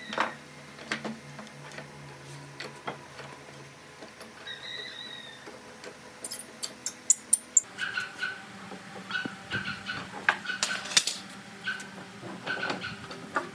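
A dog whining, then giving many short repeated yips in the second half, among sharp clicks and taps.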